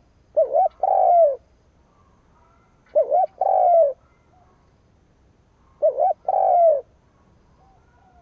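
Spotted dove (chim cu gáy) cooing its call three times, about three seconds apart: each call is two quick short notes followed by a longer, falling coo. The calling is that of a kept decoy dove, used to call in and provoke wild doves.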